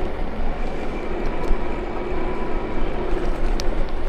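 Steady wind and road rumble of a bicycle ride, with a few faint ticks from a jacket zipper tapping against the camera.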